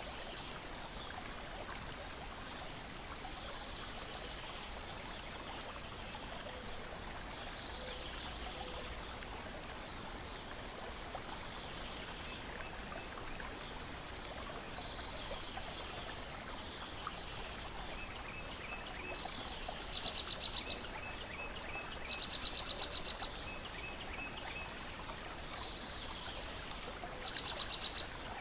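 Lake water lapping and trickling in a steady wash, with birds calling over it: short series of high repeated chips, and three loud, rapid trills in the last third.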